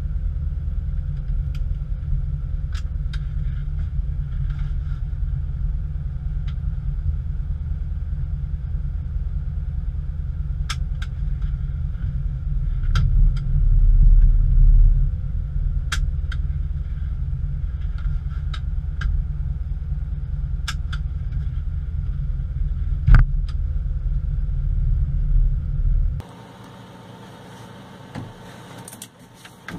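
MB trac 900 turbo tractor's turbo diesel engine running steadily with a deep rumble, swelling louder for a couple of seconds about midway, with scattered sharp clicks and one louder knock. The rumble cuts off abruptly near the end, leaving a faint hiss.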